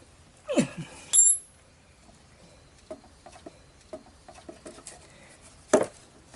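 Small metal parts and tools being handled: a short falling squeak, then a high ringing metallic clink, scattered light taps, and a sharp knock near the end.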